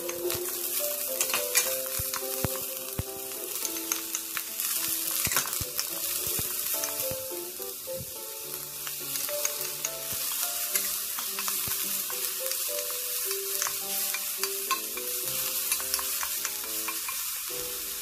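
Diced vegetables sizzling in oil in a pot on medium heat, stirred with a wooden spoon that scrapes and clicks against the pot. Soft background music with held notes plays underneath.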